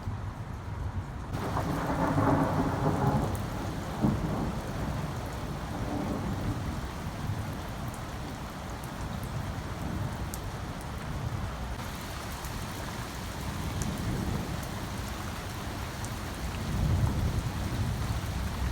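Thunder rumbling over steady rain, with a loud peal a couple of seconds in and a deep rumble near the end.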